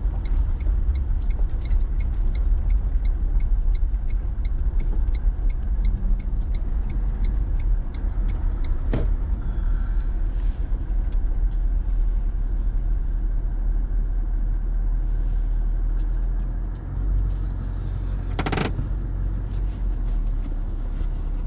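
Toyota LandCruiser 70 series running at low speed as it turns off the road and rolls across a gravel lot, a steady low rumble. The turn indicator ticks evenly for the first few seconds, and a brief louder noise comes near the end.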